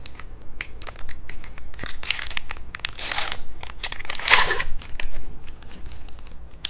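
Plastic candy packaging crinkling and being torn open by hand, with many small crackling clicks and a few longer rustling tears.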